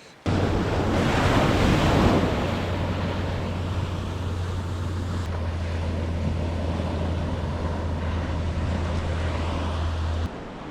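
Ocean surf breaking on a beach, with wind rumbling on the microphone. It starts abruptly, swells over the first couple of seconds, then runs steadily and cuts off suddenly near the end.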